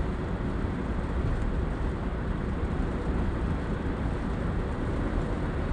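Steady road and wind noise of a vehicle driving at speed on a highway, an even rumble with no distinct events.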